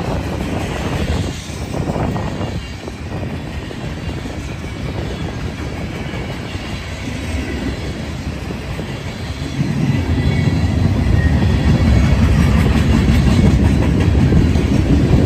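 Norfolk Southern mixed freight train's cars rolling past, steel wheels rumbling on the rails; the rumble grows louder about two-thirds of the way through.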